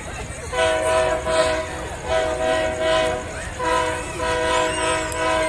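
Diesel locomotive's multi-chime air horn sounding three long blasts, a steady chord of several tones, starting about half a second in.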